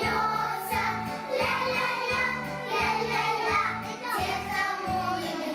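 A children's song: voices singing over backing music with a steady bass line.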